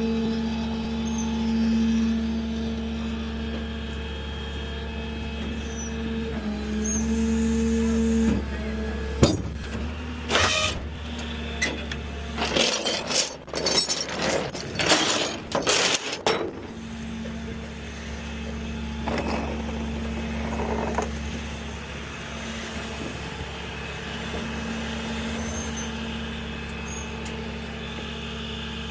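Truck engine idling with a steady low hum. Around the middle comes a run of loud, sharp clanks and hisses, then the idle goes on.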